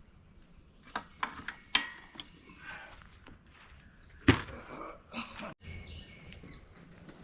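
A few sharp clicks and knocks about a second in, then one loud knock about four seconds in, with some scraping handling noise around it.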